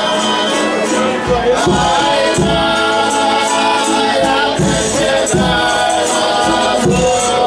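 Folia de Reis music: sustained chords over a steady drum beat, with tambourine jingles.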